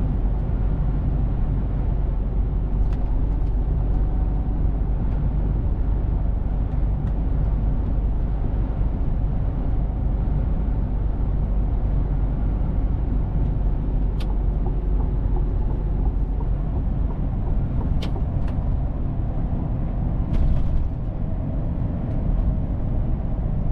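Mercedes-Benz Actros truck running on the road: a steady low engine and road rumble, with a few short clicks here and there.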